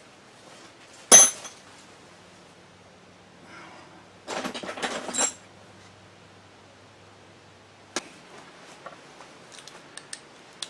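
Metal hand tools and motor parts handled on a workbench: one sharp clank about a second in, a second of clinking and rattling around the middle, then a few light ticks near the end.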